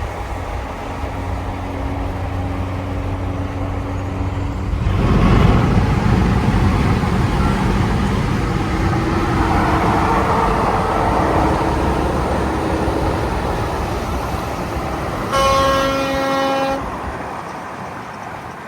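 Heavy truck engine running, then growing louder as a truck passes, with one horn blast lasting about a second and a half near the end.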